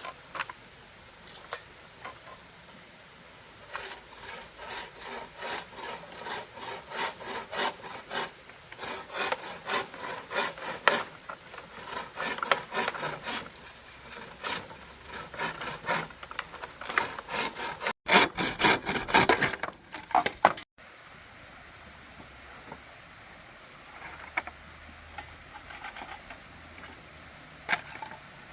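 Hand saw cutting through wood in steady back-and-forth strokes, about two a second, with a louder spell of sawing past the middle.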